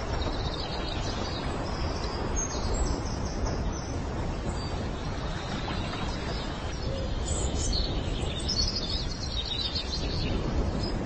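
Birds chirping in two short spells of high calls, over a steady low rumbling outdoor noise.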